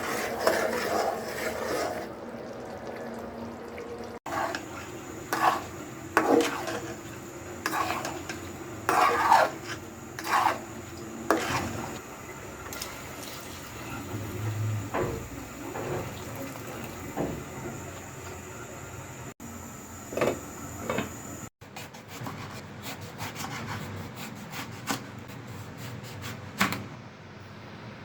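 Kitchen utensils clinking and scraping against pots and dishes, irregular clatters over a steady background, broken by abrupt cuts.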